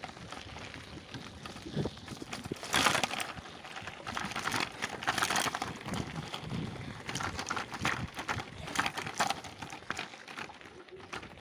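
Irregular crunching and rustling of someone moving through forest undergrowth, with the loudest crackles about three and five seconds in.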